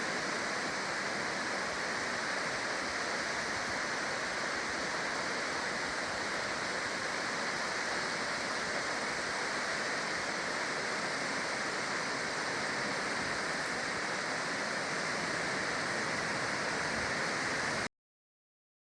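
Whitewater Falls rushing steadily, heard from the overlook. It cuts off suddenly near the end.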